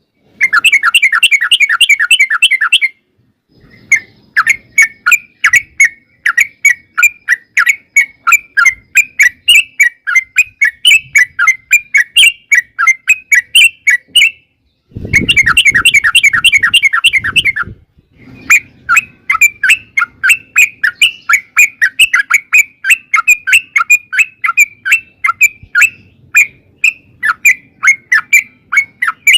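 Yellow-vented bulbul (trucukan) singing. It alternates bursts of fast, bubbling chatter (the continuous 'ropel' song) with long runs of short, repeated notes at about three a second.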